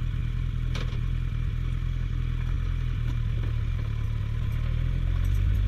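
Suzuki GSF1250S Bandit's inline-four engine running steadily under way, getting a little louder near the end.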